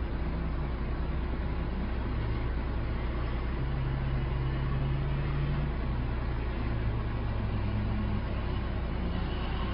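Truck engine running steadily under load, its pitch stepping up and down as it works.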